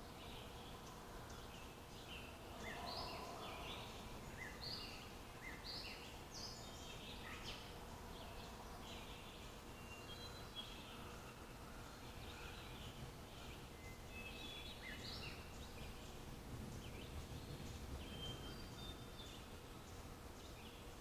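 Birds chirping, many short calls with a few thin whistled notes, over a faint low background rumble.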